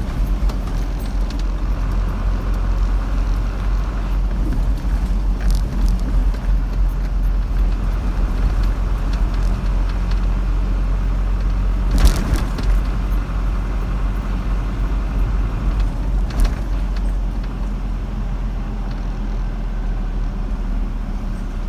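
A car driving along a road: steady engine and tyre noise with a low rumble, and a sharp knock about twelve seconds in, a smaller one a few seconds later.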